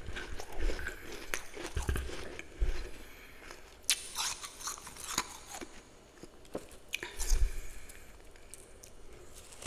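Close-miked crunching and chewing of powdery freezer frost, in irregular crackling bites and chews with soft jaw thumps.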